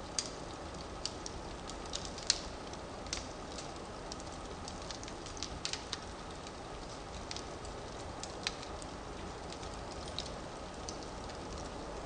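Firewood burning in a fireplace: a steady low rush of flame with irregular sharp crackles and pops, the loudest about two seconds in.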